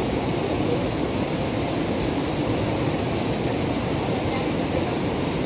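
Waterfall: a steady, deep rush of falling water that does not change.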